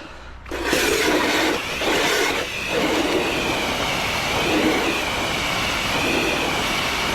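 High-pressure water jet blasting debris out of a roof gutter: a loud, steady rush of spray with a wavering high tone over it.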